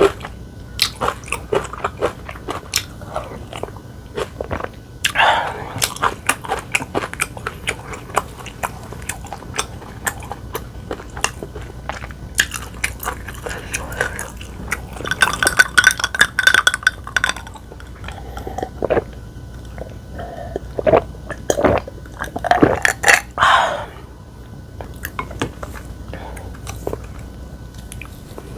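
Close-miked eating: chewing and biting with many short, wet mouth clicks, and a few louder, denser stretches of crunchy bites.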